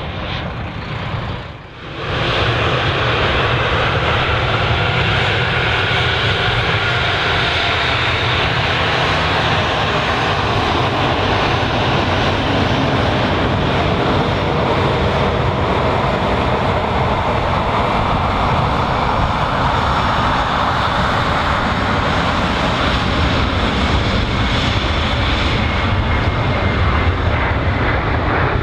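Airbus A319 airliner's jet engines, loud and continuous through the landing, with a slow rise and fall in pitch as the aircraft passes. The sound dips briefly about a second and a half in, then holds steady.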